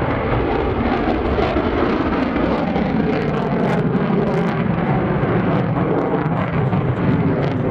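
Steady jet noise from an F-16C Fighting Falcon's single engine as the fighter flies past.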